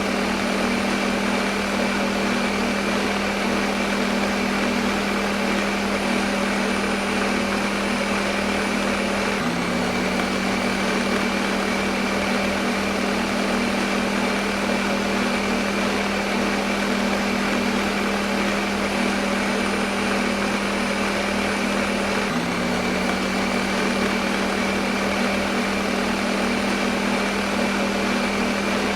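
Electric kitchen blender motor running steadily, a continuous whirring hum used as white noise, with a brief hitch in the hum twice.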